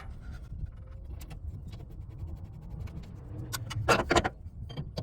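Small clicks and rattles of an air line and its metal fitting being handled and fitted to an air dryer, with a short burst of louder clatter about four seconds in, over a steady low rumble.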